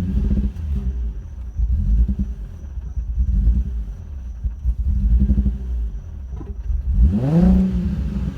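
Nissan 350Z's 3.5-litre V6 running roughly and unevenly, stumbling and breaking up from misfires, with one quick rev about seven seconds in that rises and falls back. The misfiring comes from a bad fuel injector and failing coil packs.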